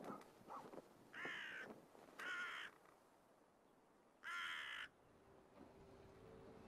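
A crow cawing three times, each harsh call about half a second long. The first two come close together and the third follows after a pause of about a second and a half.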